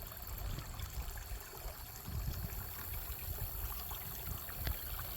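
Wind buffeting the microphone outdoors: an uneven low rumble that rises and falls in gusts over a faint steady hiss.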